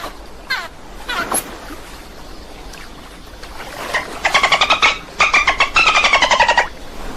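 Dolphin calls: a couple of short falling whistles, then a loud, rapid buzzing chatter of pulses in two bursts, its pitch sliding down.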